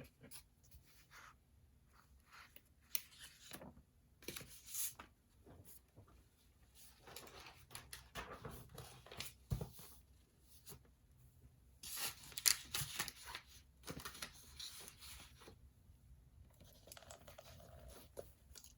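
Paper being handled at a desk: irregular bursts of rustling and tearing-like sounds, loudest about twelve to thirteen seconds in.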